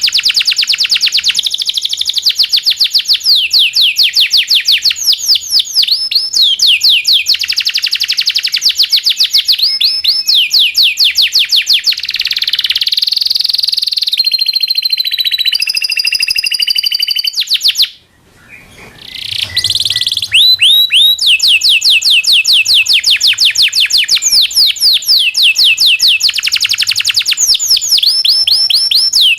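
Domestic canary singing: long rolling trills of rapid repeated notes ('cuit cuit' and 'ngerol' rolls), with a few held whistled notes a little past the middle. The song breaks off briefly about halfway through, then resumes.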